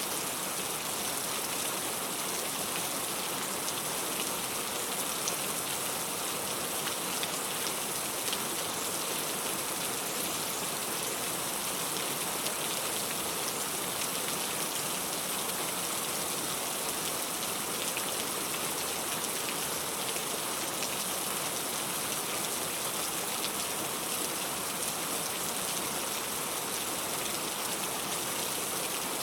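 Steady rainfall: an even hiss of rain with a few sharper single drop ticks here and there.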